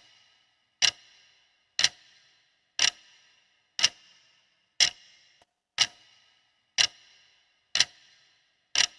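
Clock-tick sound effect counting down a quiz answer timer: one sharp tick each second, nine in all, each with a brief ringing tail.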